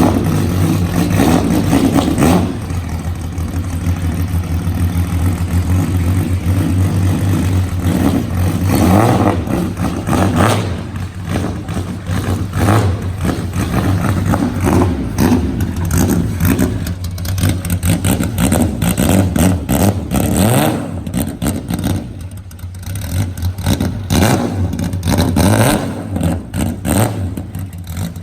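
Hakosuka (C10) Nissan Skyline with a side-exit exhaust, described as deafeningly loud, running at idle with short revs every few seconds.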